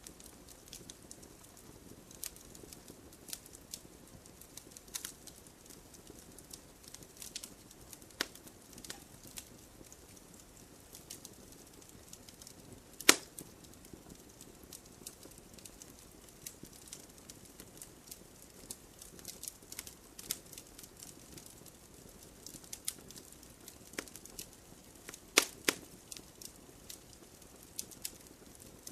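Campfire crackling: scattered sharp pops and snaps of burning wood over a faint steady background, the loudest pop about halfway through and a quick pair of pops near the end.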